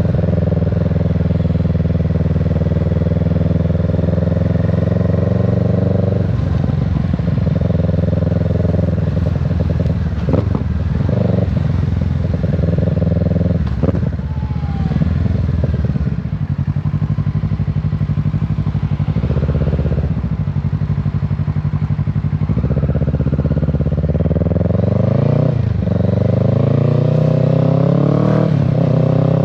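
Kawasaki Z650 motorcycle engine and exhaust running under way. The engine pitch shifts up and down in the middle as the revs change, then climbs steadily near the end as the bike accelerates.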